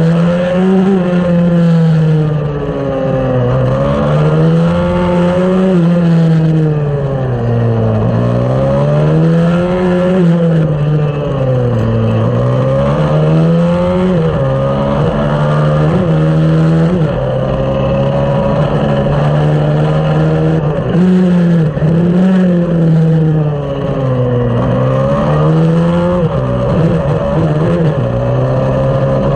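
A 140cc pit bike engine racing on track, its revs climbing and dropping again and again every few seconds as the rider shifts and brakes for corners, with a longer steady stretch near the middle.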